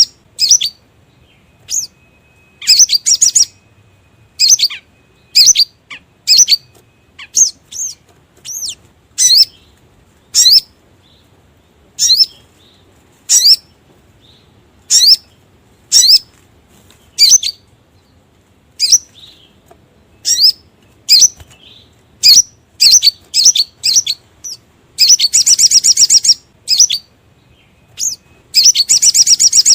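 Sogon (sogok ontong) bird calls played as a trapper's lure call: sharp, high, quick call notes about once a second, broken twice near the end by a longer rapid trill.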